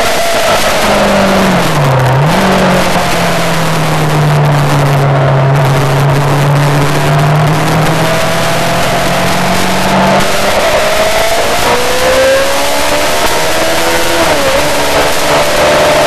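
Yamaha R6 sport bike's inline-four engine running hard on track under heavy wind rush, its pitch sagging and climbing with the throttle. There are brief sharp dips in pitch, like quick gear changes, about two seconds in and again near the end.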